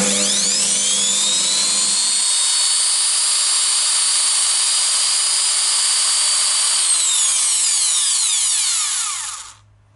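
Eibenstock EHD 1300 diamond core drill's motor, fitted with a new armature, switched on with a rising whine as it spins up, running steadily at speed, then released about seven seconds in and winding down to a stop near the end. It runs smoothly and evenly, with no intermittent cutting out or sparking.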